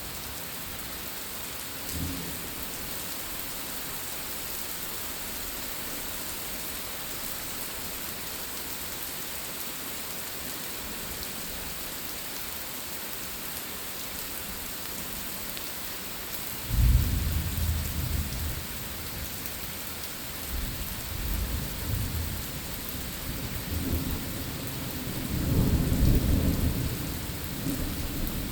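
Steady heavy rain hissing down during a thunderstorm. A little past halfway a thunderclap breaks suddenly, then rolls on as low rumbling that swells again near the end.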